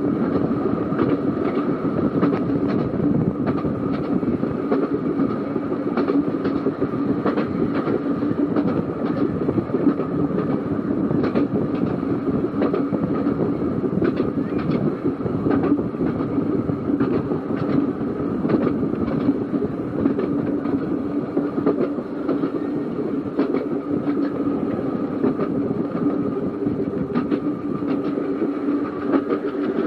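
Seaton Tramway narrow-gauge electric tram running along the line: a steady motor hum and rolling noise, with frequent clicks of the wheels over the rail joints.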